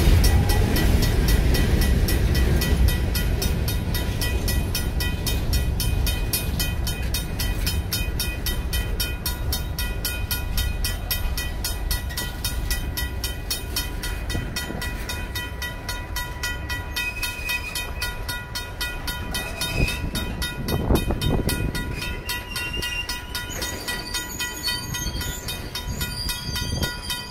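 Freight cars rolling past a grade crossing, a heavy rumble of wheels on rail that eases off gradually. Over it, the crossing's RACO mechanical bell rings steadily with even strokes.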